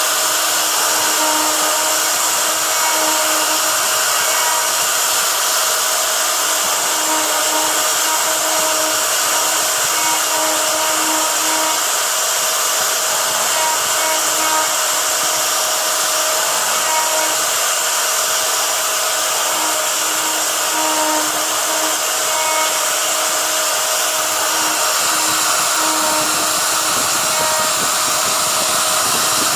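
MG sign-making CNC router running a job: the router spindle motor runs with a steady loud whirr, while short on-and-off tones come and go as the stepper motors drive the axes.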